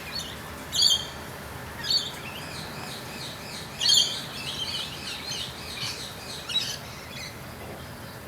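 Birds calling: short, loud, high calls every second or two, with a spell of softer twittering in the middle.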